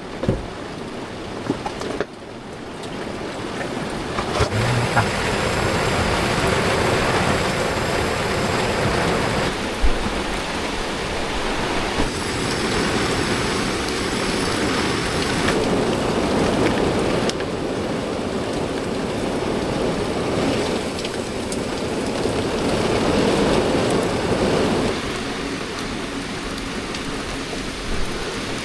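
Heavy rain pouring down in a rainstorm: a dense, steady hiss of downpour that rises and falls in strength a few times.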